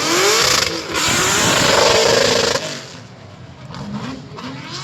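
A vehicle engine revving hard, its pitch climbing, then dropping away about two and a half seconds in to a quieter running engine.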